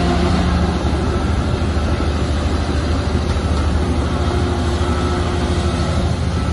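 Heavy diesel earthmoving machinery running steadily, a low throbbing engine note with faint short whines coming and going above it.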